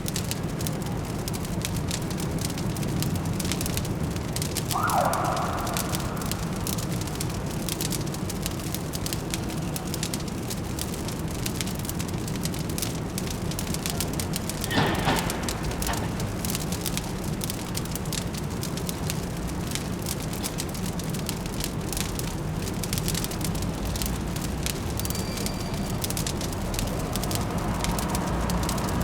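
Wood fire crackling with scattered small pops over a steady low city hum. There is a short higher-pitched sound about five seconds in and a louder crack about halfway through.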